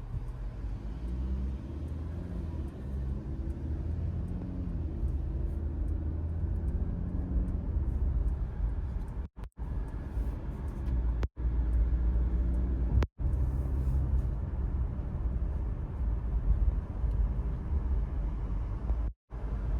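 Steady low road and tyre rumble from an electric Mercedes-Benz EQE 350 on the move, with no engine sound. The sound drops out for an instant four times.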